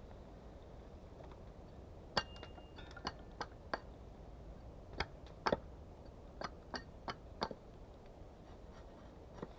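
About a dozen light, irregular knocks and clicks of wood being handled and set in place, with a brief ring on one of the first ones.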